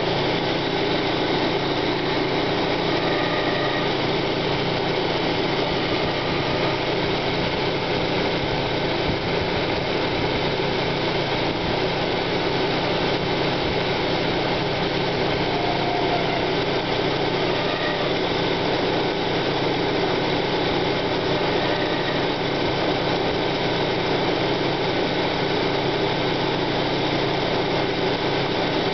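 1995 Plymouth Neon's 2.0-litre DOHC four-cylinder engine running steadily, with a constant grinding noise that the owner suspects comes from a failing timing-belt idler pulley bearing or the water pump.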